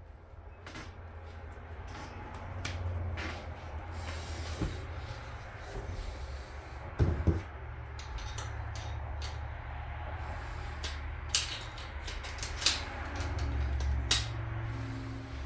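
Scattered clicks and knocks of metal outboard lower-unit parts being handled and fitted together by hand, with a few sharper knocks about halfway through and near the end, over a low rumble.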